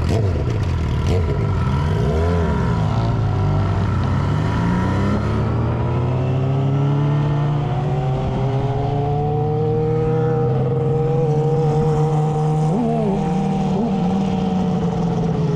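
Motorcycle engine blipped up and down a few times, then revving up slowly to a higher pitch that holds steady and eases off slightly near the end.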